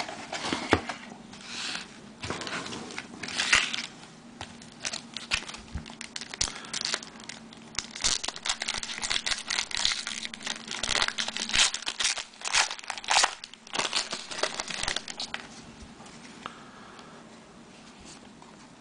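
Plastic wrapping of a sealed trading-card box and pack being torn open and crinkled, a dense run of irregular crackles that eases off in the last few seconds into lighter handling.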